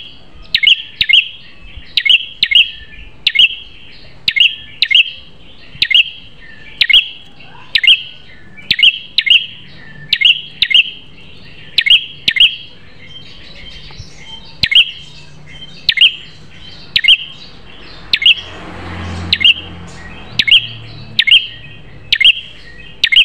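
Prenjak kepala merah songbird calling: a fast, steady string of sharp, high chirps, about two a second, each a quick downward flick. A faint low rumble rises briefly about three quarters of the way through.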